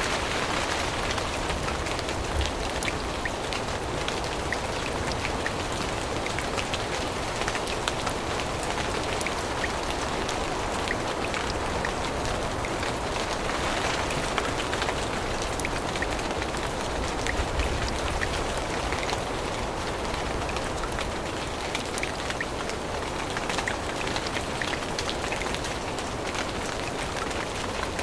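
Steady rain falling on forest leaves: an even hiss with a dense scatter of small drop ticks.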